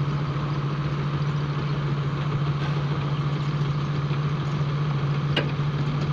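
Diesel engine idling steadily with an even low hum, and a single short click about five seconds in.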